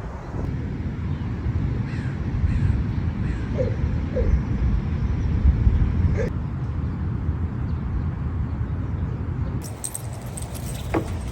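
A bird calling several short times, over a steady low rumble of wind on the microphone.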